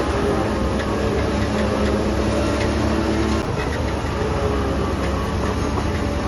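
Heavy diesel construction machinery running steadily at a work site. Its engine note drops away about three and a half seconds in, while a loud, rough running noise carries on.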